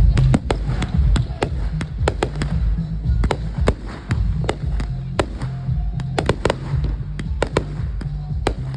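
Fireworks crackling and popping in quick, irregular succession, several sharp cracks a second, over music with a heavy bass.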